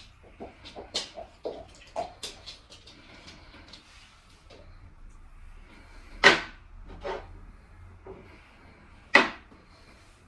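A run of light knocks and taps, with two loud sharp knocks about six and nine seconds in.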